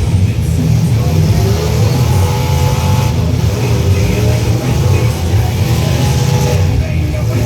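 Demolition-derby truck engines running and revving loudly and steadily.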